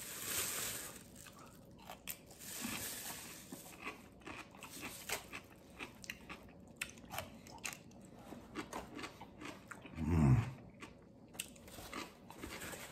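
A pickle spear being bitten and chewed in short, crisp crunches. The plastic wrapper rustles for the first second, and a brief low hum comes from the eater about ten seconds in.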